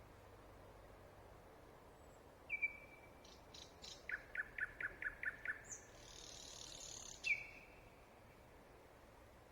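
A songbird singing at night in separate phrases. About two and a half seconds in comes a clear whistled note that drops away, then a quick run of about seven loud notes, then a high note leading into a buzzy, rattling phrase, and another whistled note near the end. The uploader takes the singer for a nightingale but is not sure.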